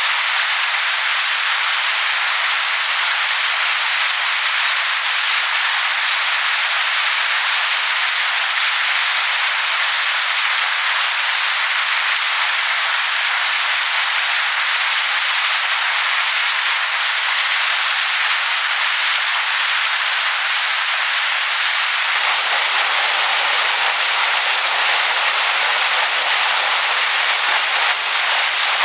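Waterfall splashing onto rocks: a steady, hissing rush of falling water, with a little more low rumble in the last several seconds.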